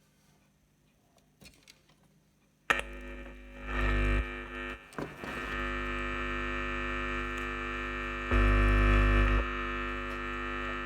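Loudspeaker on a car-stereo amplifier board under test, sounding a steady distorted buzz with many overtones that starts suddenly about two and a half seconds in, with louder low surges twice. It shows that the amplifier with its replaced TDA7388 IC is driving the speaker.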